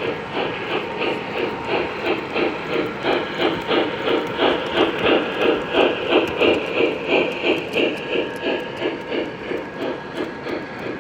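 Model steam locomotive's sound system chuffing steadily, about four chuffs a second, growing louder toward the middle and fading again as the train passes.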